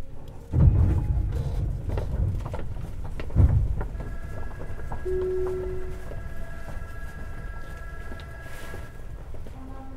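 Tobu 50090 series electric commuter train running, heard from near the car's underfloor: a steady wheel-on-rail rumble with two heavy knocks, about half a second and three and a half seconds in. From about four seconds a steady whine from the underfloor running gear joins in.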